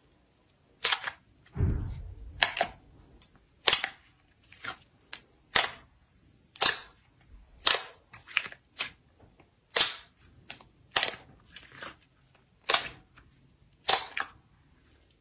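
Slime being pressed and worked by hand, giving sharp pops and clicks from trapped air about once a second, with smaller crackles between and one low thud near the start.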